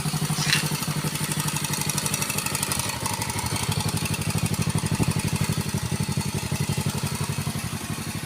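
Quad bike engine running steadily with an even, pulsing beat, with a brief high-pitched sound about half a second in.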